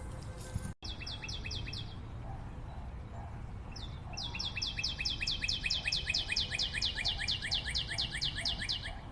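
A forest bird calling in fast runs of sharp down-slurred notes, about four or five a second: a short run about a second in, then a long, unbroken run from about four seconds in.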